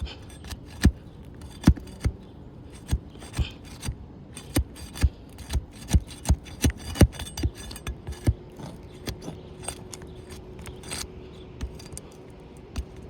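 Sharp irregular clicks and scraping as a tool is worked under sealed asphalt shingles to break them loose. The shingles are brittle and tear easily under it. The clicks come thick and fast for most of the stretch and thin out near the end.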